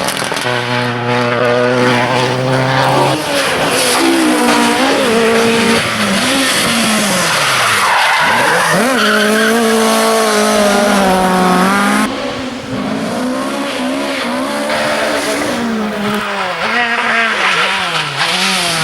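Rally car engine running hard, its pitch climbing and then stepping back with gear changes, and swooping down steeply as the car passes close by. About two-thirds of the way in the sound changes abruptly to another car driven hard, its revs rising and falling.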